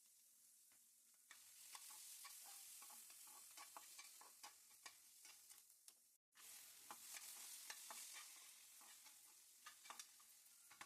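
Food frying quietly in a pan with a steady sizzle, while a spatula stirs it with repeated clicks and scrapes against the pan. The sound drops out completely for a moment about six seconds in.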